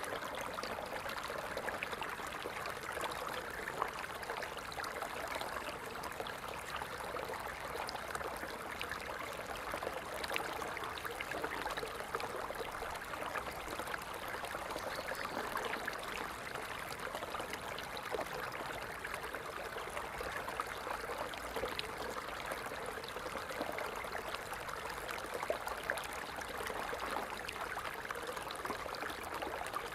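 Water falling and splashing steadily, a continuous rush with many small splashes.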